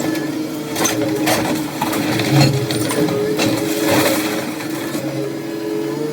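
A machine's engine running steadily, with scattered knocks and scraping on top of it.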